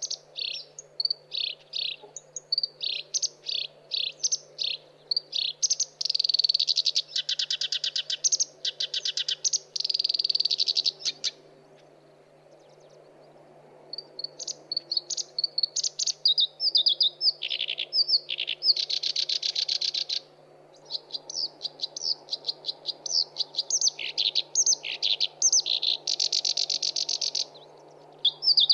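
Black-browed reed warbler singing: a long run of rapid chattering phrases and fast buzzy trills, broken by a pause of about two seconds near the middle.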